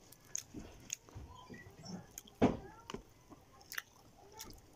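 Close-up eating sounds: soft chewing with scattered small mouth clicks, and one louder sharp knock about halfway through.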